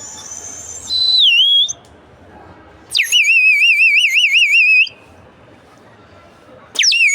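Water-filled bird whistle blown in three blasts: a short falling note about a second in, a warbling trill lasting about two seconds, then quick upward chirps near the end. The player blames its sound on too much water inside.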